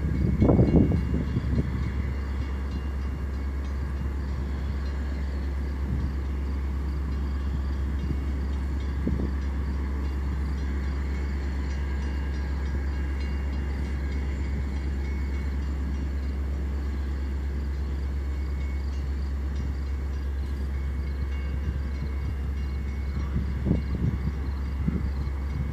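Metra commuter train rolling through the station: a steady low rumble with a faint high ringing tone above it and a few light knocks from the cars.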